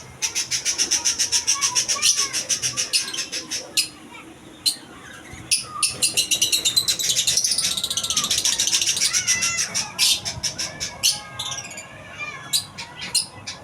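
A flock of small caged birds chirping and squawking, with quick runs of high, sharp chirps at several a second, a short pause near four seconds, and looser, scattered calls near the end.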